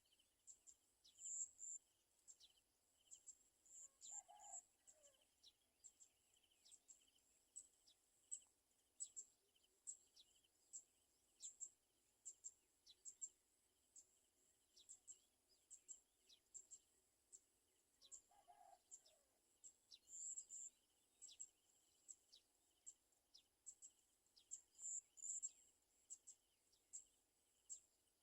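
Faint, high, thin chirps of garden sunbirds, repeating irregularly every second or so, over a faint steady insect drone. A short, lower call sounds twice, about four and eighteen seconds in.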